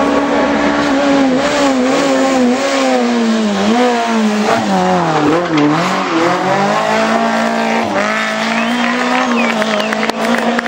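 Rally car engine running at high revs, its pitch dipping and climbing back several times about halfway through as the driver lifts and shifts.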